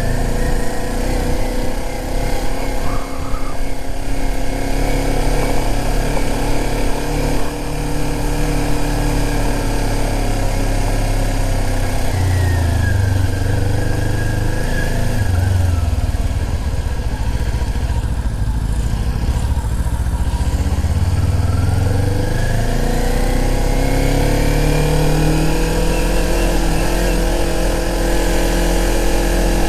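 Motorcycle engine running under way, its note falling and dipping around the middle and then climbing steadily again as the bike accelerates.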